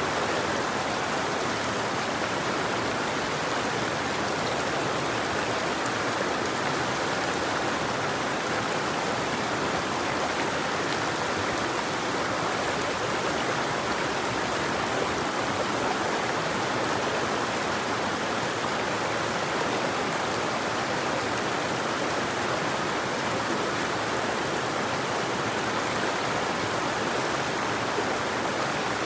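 River water flowing steadily, an even rush of water with no breaks or changes.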